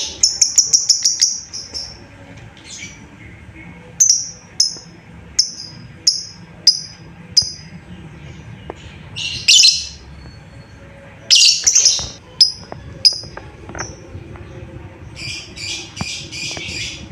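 Lovebird calling with sharp, high chirps: a fast run of chirps at the start, then single chirps a little under a second apart, two harsher screechy calls around the middle, and a quick buzzy run of calls near the end.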